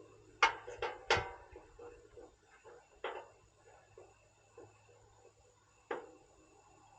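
A few sharp clicks and knocks of equipment being handled while a vacuum pump and micron gauge are hooked up: three in quick succession in the first second or so, then single knocks about three and six seconds in, over a faint steady hum.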